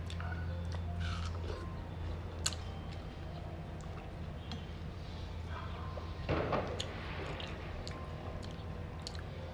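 Quiet mouth sounds of someone eating watermelon, scattered small clicks and smacks, over a steady low hum. A louder, noisier bite or slurp comes about six seconds in.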